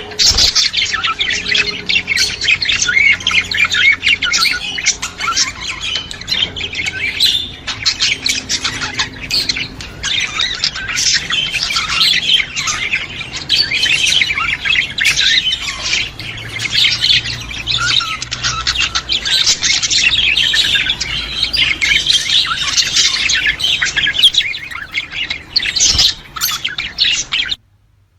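A flock of budgerigars chattering, a dense, continuous mass of overlapping chirps, warbles and squawks. The sound cuts out briefly just before the end.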